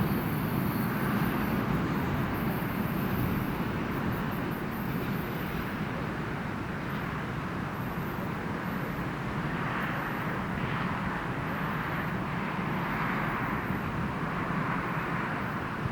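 Freight train receding: a steady rolling noise of wheels on rails that slowly fades away.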